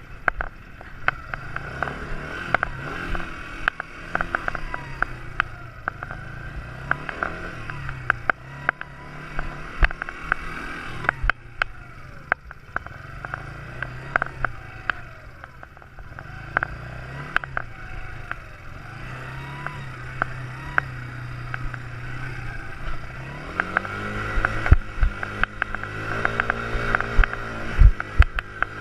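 Quad bike engine running, its pitch repeatedly rising and falling with the throttle, with frequent sharp clicks and knocks. Near the end it revs louder and higher.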